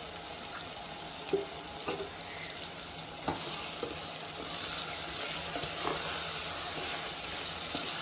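Chicken pepper fry masala, loosened with a little water, sizzling steadily in a nonstick pot on the stove, while a wooden spatula stirs it and knocks and scrapes against the pot now and then.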